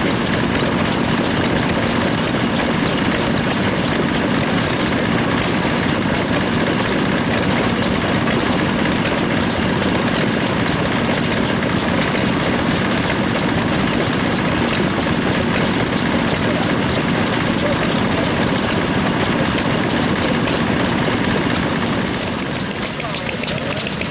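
Vintage stationary engine running steadily, a little quieter near the end.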